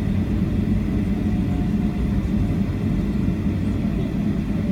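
Airliner's engines running with a steady low rumble.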